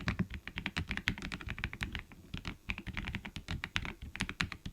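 Fast typing on an Attack Shark M87 Pro V2 gasket-mount mechanical keyboard with pre-lubed linear White Jade switches: a quick, steady run of keystrokes, about eight to ten a second, without a clacky plastic sound.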